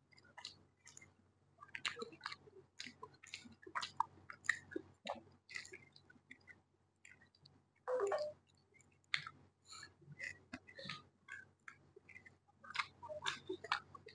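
Close-miked chewing of a mouthful of rice and curry: many short wet mouth clicks and smacks, with one longer, louder sound about eight seconds in.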